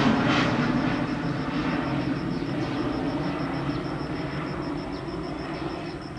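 Boeing 737 jet engines at takeoff power fading steadily as the airliner moves away after departure. A rapid, evenly pulsing insect chirp carries on underneath as the jet dies down.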